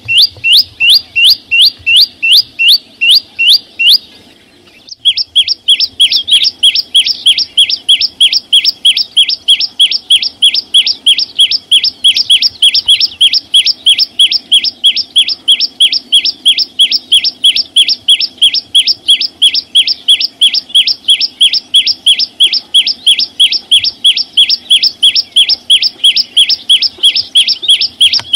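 A small songbird, the chim sâu xanh, sings a fast string of identical clear, high, slurred notes. It gives about two to three notes a second, breaks off for about a second around four seconds in, then resumes faster at about four notes a second.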